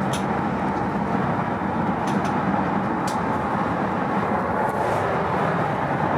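Steady rumble of a moving vehicle, with a few short, sharp clicks about two and three seconds in.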